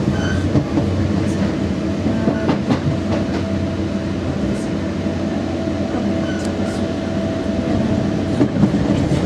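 Passenger train running at speed, heard from inside the carriage: a steady rumble with a few sharp clicks from the wheels on the track, and a steady whine that stops about eight seconds in.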